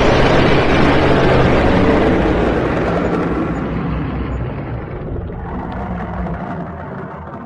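Designed dragon sound effect: a long, rasping roar with a low rumble beneath, loudest at the start and slowly fading away over about seven seconds.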